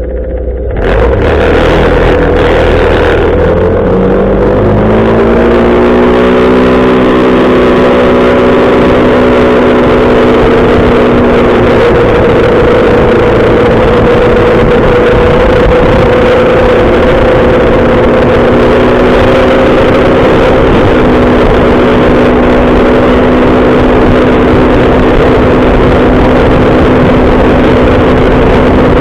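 Motorcycle engine running while riding: its pitch climbs over a few seconds as it accelerates, then holds steady at cruising speed. A loud rush of wind and road noise sets in about a second in.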